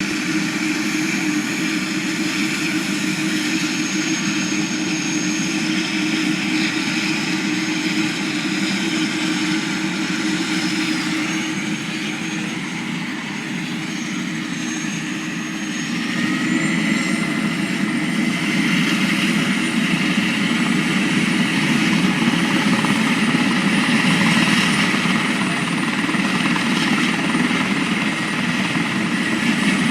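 Helicopter running at a heliport, turbine whine over the rotor sound, steady at first and growing louder about halfway through, with a brief rising whine as it does.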